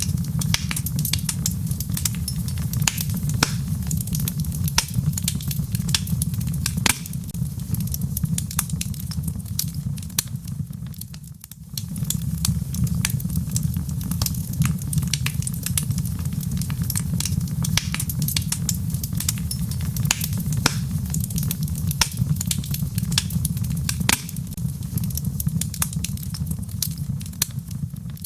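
Wood fire burning in a fireplace: steady low flame roar with dense, irregular crackles and pops from the logs. The sound fades out briefly and comes back about eleven seconds in.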